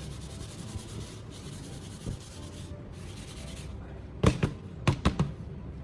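Charcoal chunks being handled in a metal stove chamber: light scraping and rubbing, then several sharp clacks of chunks knocking together and against the metal, about four to five seconds in.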